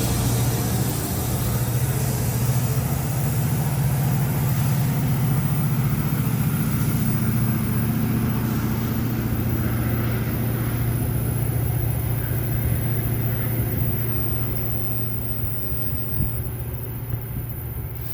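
GO Transit diesel commuter train's locomotive engine running with a steady low drone, fading away over the last few seconds as the train moves off.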